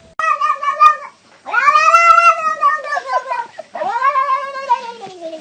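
Domestic cat yowling: three drawn-out calls, a shorter one at the start, then a long one that rises and falls in pitch, then one sliding down.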